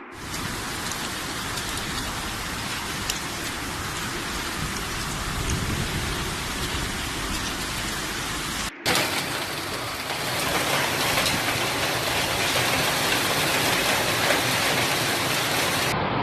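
Heavy rain falling in a steady, dense hiss. About nine seconds in, a brief break cuts to a second stretch of similar, slightly louder rain.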